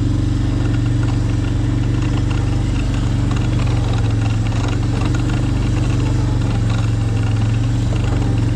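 An engine running steadily at an even speed: a loud, unchanging low drone.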